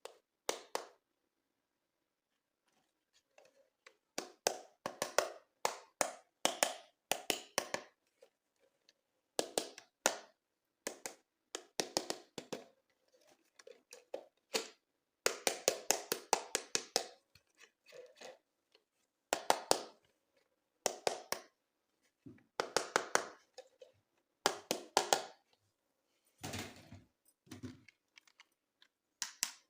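Hands handling plastic toys and their packaging: repeated short bursts of crinkling and clicking, with two dull thuds near the end.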